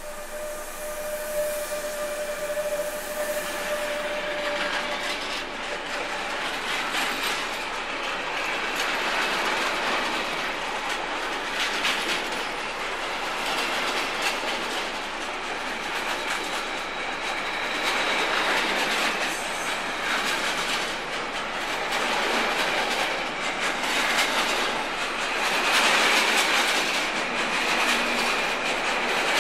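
Bombardier TRAXX class 185 electric locomotive passing at low speed, a steady whine fading over the first few seconds. A long train of container flat wagons follows, rolling by with a steady clatter of wheels over rail joints that grows slightly louder.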